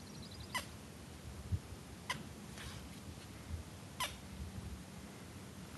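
A bird chirping: three short, quick falling calls about one and a half to two seconds apart, over a quiet outdoor background.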